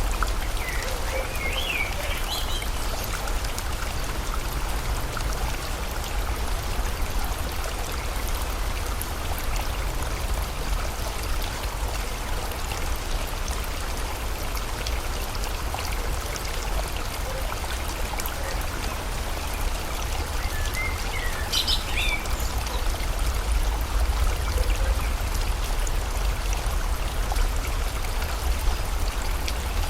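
Steady rushing of river water, with a bird giving a short burst of rising chirps twice, about a second in and again about twenty seconds later.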